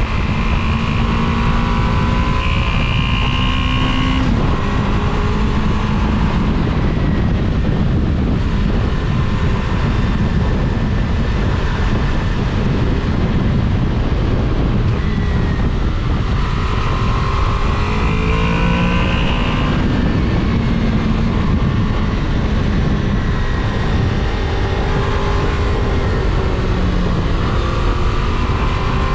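Sport-touring motorcycle being ridden: steady heavy wind and road rush, with the engine note rising and falling in pitch several times.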